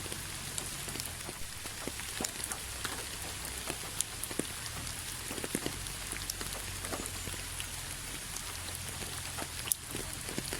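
Steady rain falling: a continuous hiss with many single drops ticking sharply throughout, a couple of them louder, and a low steady rumble underneath.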